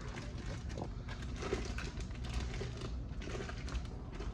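Plastic shrink-wrap bags crinkling and rustling in the hands, a run of small irregular clicks and crackles, over a steady low hum.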